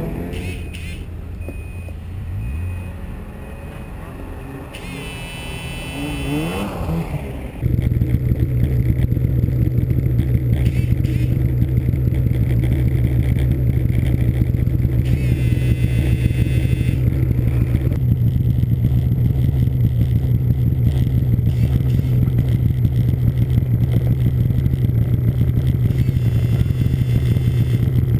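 Snowmobile engine rising and falling in pitch for the first several seconds, then, about eight seconds in, jumping to a loud, steady run at constant revs that holds to the end.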